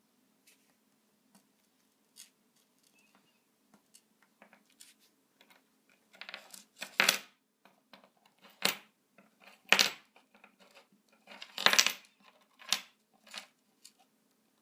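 Small hard objects clinking and clattering on a tabletop as a budgie pecks and pushes them about: a handful of sharp clinks from about six seconds in, a second or so apart, some briefly ringing.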